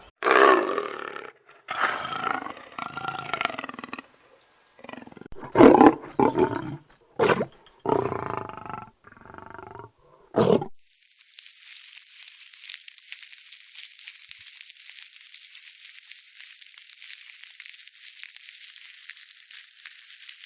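A string of short, loud animal growls and roars with brief pauses between them, followed about eleven seconds in by a steady, high-pitched hiss that lasts to the end.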